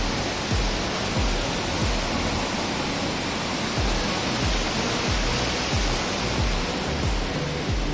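Steady rush of a waterfall, with background music carrying a steady low beat underneath.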